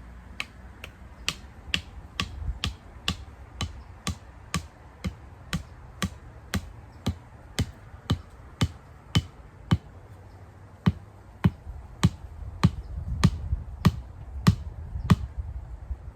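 Steady hammer blows, about two a second, driving a stake into the ground, with one short pause about two-thirds of the way through.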